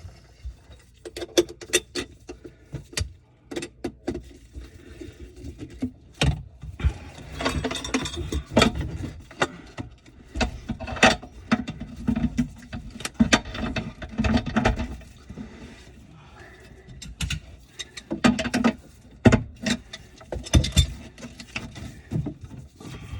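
Irregular knocks, clicks and rattles of hard objects being handled, with a few sharper, louder knocks scattered through.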